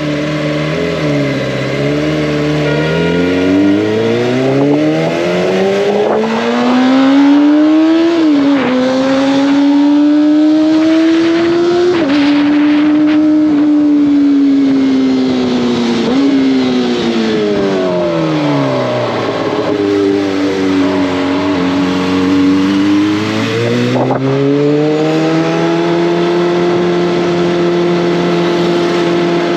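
Kawasaki ZX-25R's inline-four exhaust under way: the engine pitch climbs under acceleration and drops sharply at each upshift, then falls away as the throttle is rolled off. After a few seconds at low revs it climbs again and holds steady near the end.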